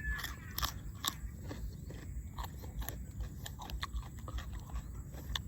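A person chewing crunchy food, a mouthful of seafood papaya salad with crisp raw vegetables, giving irregular crisp crunches and clicks several times a second.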